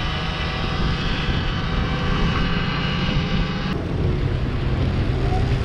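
Wind rumbling on the microphone of a moving electric enduro bike, with a faint whine from its motor over the noise of the ride; the higher hiss drops away suddenly a little after halfway.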